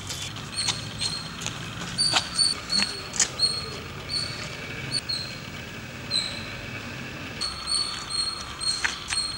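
Small birds chirping: irregular runs of short, high chirps, some dropping slightly in pitch, with a few sharp clicks among them.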